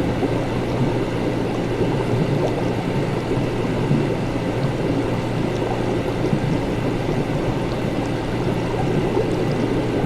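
Liquid bubbling and gurgling continuously over a steady low equipment hum, with no break.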